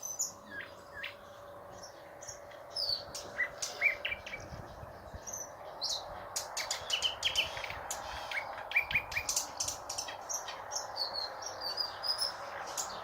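Nightingale singing: quick series of sharp clicks, short whistles and trills, over a steady background hum.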